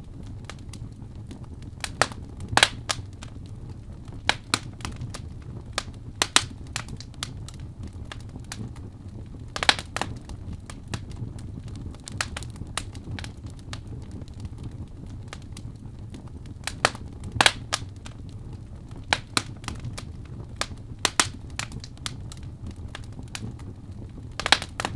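Wood fire in a fireplace crackling: a low steady rush of flames with sharp pops scattered irregularly, a few of them much louder than the rest.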